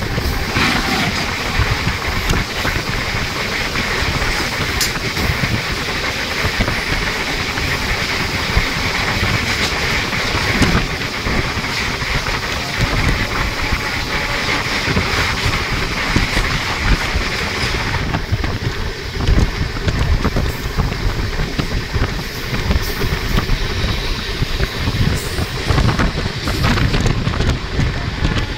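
Train running at speed, heard from its open doorway: a steady rumble and rush of air, with wheels clattering over rail joints. Partway through, a freight train of container wagons passes close by on the adjacent track.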